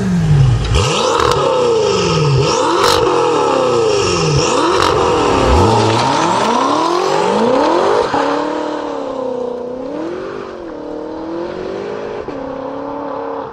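BMW F10 M5's twin-turbo V8 through an aftermarket Armytrix valved exhaust, revved hard over and over, its pitch climbing and falling with a few sharp cracks. About eight seconds in it drops to a quieter, steadier note that wavers gently.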